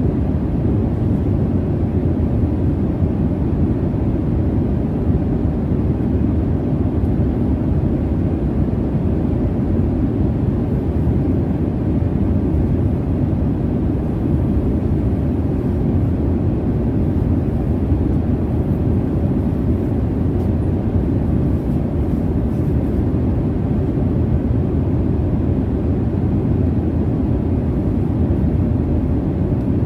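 Airliner cabin noise in flight: a steady, deep jet rumble with a softer hiss above it, unchanging throughout.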